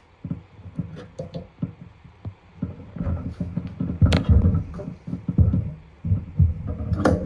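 Recoil starter being pulled on a Honda EM3000 generator. The engine turns over in rhythmic pulses without firing while its ignition spark is being tested. The cranking gets louder about three seconds in, with the strongest pulls around four seconds and again near the end.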